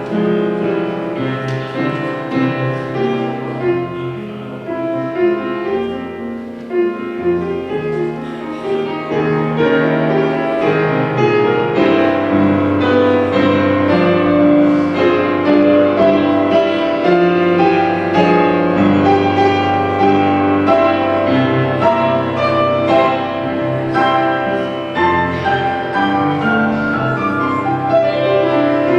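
Instrumental church prelude played on a keyboard instrument, with held chords and a sustained bass line.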